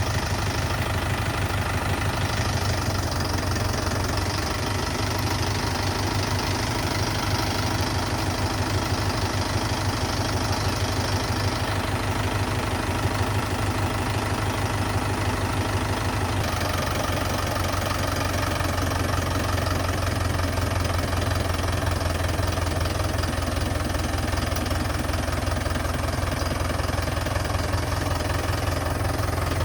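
Mahindra 575 DI tractor's diesel engine idling steadily with a low, even hum.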